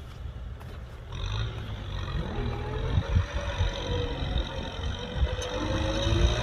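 Kubota M6040SU tractor's diesel engine running, quieter for the first second and then louder, with a faint whine that slowly wavers in pitch.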